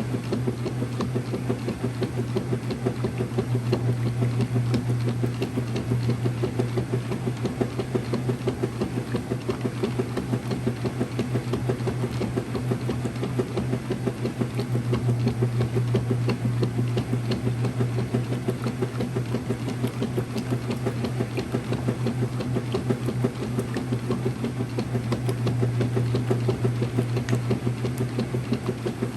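Early-2000s Whirlpool direct-drive washer running: a steady motor hum under a fast, even rhythmic pulsing.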